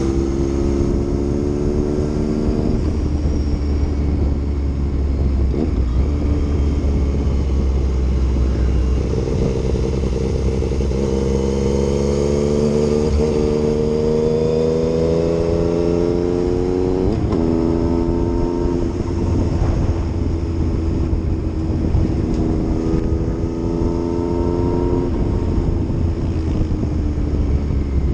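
Yamaha MT-09 motorcycle's inline-three engine under way, its pitch rising slowly as it pulls and dropping back sharply a few times, about halfway through and again near the end, with a steady low rumble beneath.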